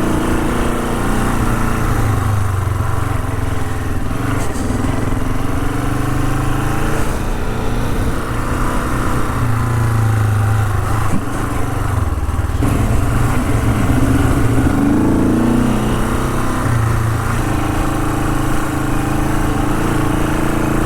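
Honda CL450's parallel-twin engine running under way, its revs rising and falling as the throttle opens and closes. A couple of short sharp knocks come near the middle.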